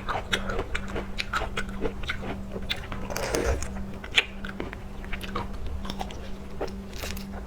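A person chewing and biting into raw seafood, with many quick crackly clicks of crunching and wet mouth sounds. A steady low hum runs underneath.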